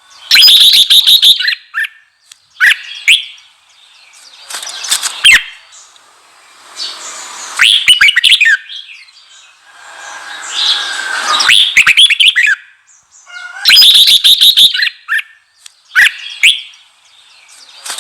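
Red-whiskered bulbul singing loud, short phrases of rapid chattering notes, a new phrase every second or two. It is the fired-up, aggressive song that bulbul keepers use to rouse and provoke other bulbuls.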